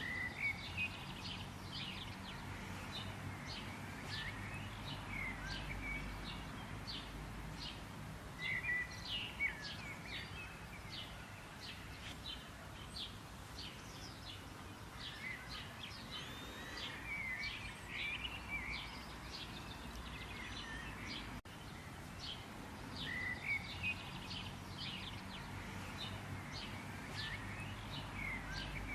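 Several songbirds chirping and singing in repeated clusters of short calls, over a steady low background rumble.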